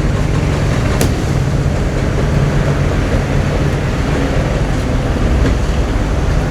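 A boat's engine running steadily with a low hum, and a single sharp click about a second in.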